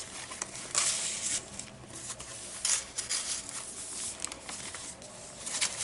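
Paper rustling as the pages and inserted cards of a handmade junk journal are turned and handled, in several short bursts.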